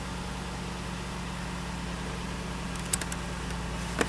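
1992 Toyota Camry engine idling steadily, heard from inside the cabin, with two light clicks near the end.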